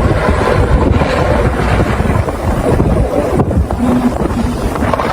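Loud, steady rush of wind buffeting the microphone, with a deep rumble underneath.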